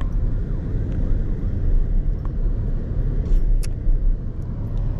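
A car running, a steady low rumble, with a few small clicks around the middle.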